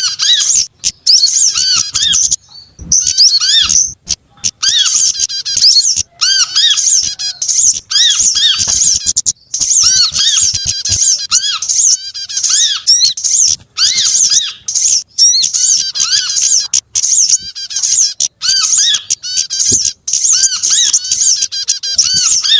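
Small songbirds' rapid, high chirping and twittering, many short arched notes in quick succession with only brief pauses. It is a looped bird-luring recording that mixes the calls of several small species, among them prenjak (prinia).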